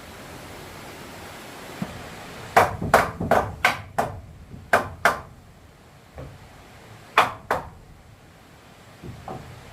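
A series of sharp knocks: five quick strikes, then two, then two more a couple of seconds later.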